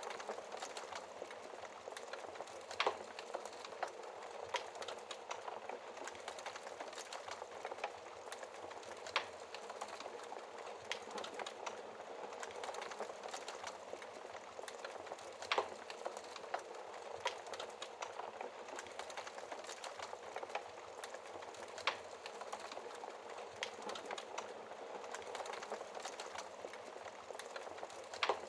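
Wood fire burning in a fireplace: a steady crackle with frequent sharp pops, a few louder ones standing out.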